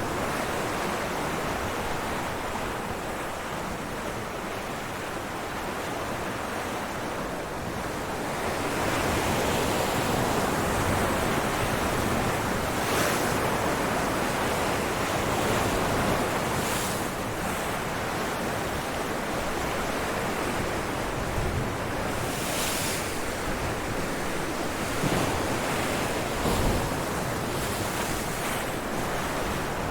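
Ocean waves breaking on rocks: a continuous surf wash that swells louder about a third of the way in, with short bright splashes as waves hit.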